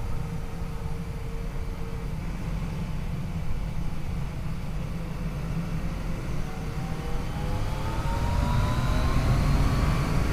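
Yamaha FJ-09's inline-three engine under way, its pitch rising steadily through the second half as the bike accelerates and getting louder near the end, over a constant low wind rumble.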